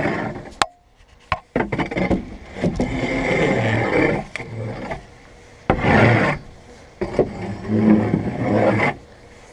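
A hoe scraping chicken manure and old hay out across the coop floor in several long rasping strokes, with short pauses between them and a couple of sharp knocks near the start.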